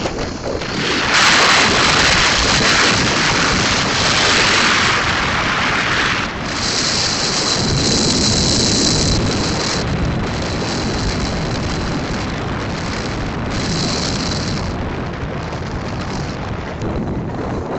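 Wind rushing over the microphone of a moving motorcycle, with engine and road noise beneath. The hiss surges loudly in the first few seconds and again twice later.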